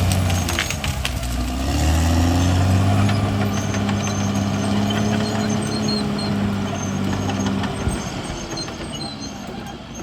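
CAT D6R XL bulldozer's diesel engine running under load, its pitch sagging about a second in and picking back up, then dropping near the end as it throttles back. A few sharp clicks come in the first two seconds.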